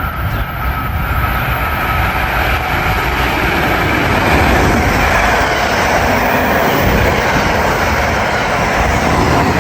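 New Jersey Transit locomotive-hauled deadhead equipment train passing close by: a steady heavy rumble of locomotive and wheels on rail that builds over the first couple of seconds and then holds loud.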